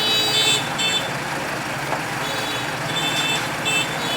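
Heavy construction vehicle's diesel engine running steadily, with a reversing alarm sounding in short beeps over it.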